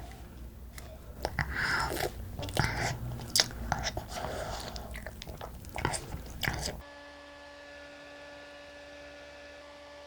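Close-up chewing and biting of black bean noodles, with many small wet clicks, for about seven seconds. Then the eating sound cuts off suddenly and a steady held tone takes over.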